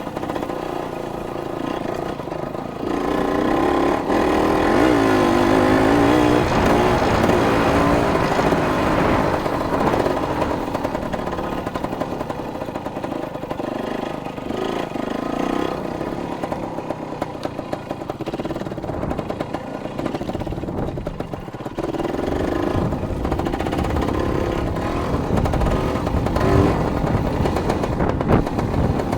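Dirt bike engine running while being ridden, its pitch rising and falling as the throttle opens and closes.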